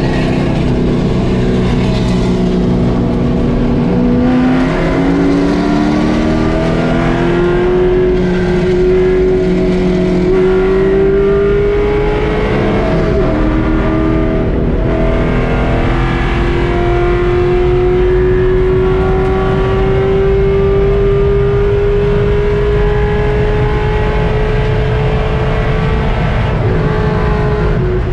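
Race car engine heard from inside the cockpit, loud and under full throttle, its pitch climbing steadily. About thirteen seconds in there is one upshift with a short break and drop in pitch, then the note climbs slowly again as the car holds speed.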